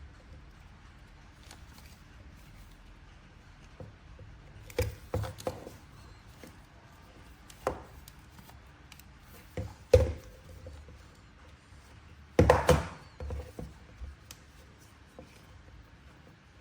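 Scattered sharp clicks and knocks from hands handling toy packaging and plastic figure parts. The loudest click comes about ten seconds in, followed a couple of seconds later by a rapid cluster of clicks.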